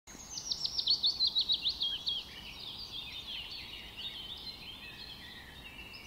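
Songbird singing: a fast run of about a dozen sharp, high, sweeping notes in the first two seconds, then quieter twittering chirps.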